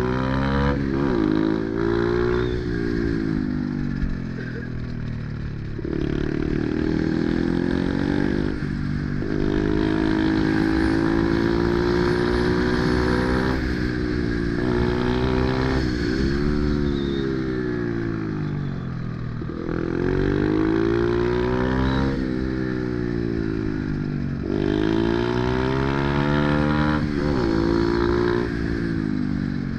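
Pit bike's small four-stroke engine revving hard and backing off over and over, its pitch climbing and falling every few seconds as the rider accelerates, shifts and slows.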